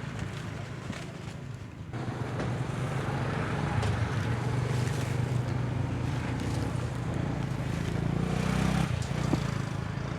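A motor vehicle's engine running steadily, getting louder about two seconds in and falling away near the end.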